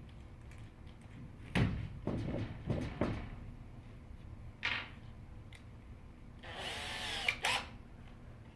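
Power drill running in a few short bursts, the longest near the end rising and falling in pitch as the trigger is squeezed and eased, with knocks from wood being handled.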